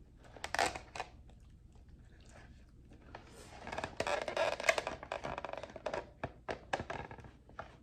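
Handling noises: a stretch of rustling and scraping in the middle, then a run of sharp clicks and taps.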